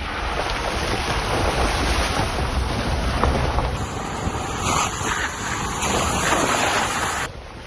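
Rushing water with wind buffeting the microphone, a loud steady hiss and low rumble that cuts off abruptly near the end.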